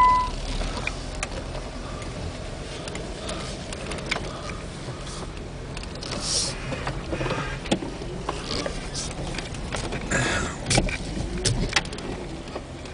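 A vehicle making its way slowly down a rocky dirt trail: a low steady rumble under irregular knocks, clicks and scrapes, louder about six seconds in and again around ten seconds.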